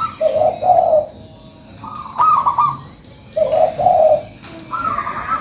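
Zebra dove (perkutut) singing its cooing song over and over. Each phrase opens with quick stuttering high notes and drops to a pair of lower, fuller coos, about every two and a half seconds.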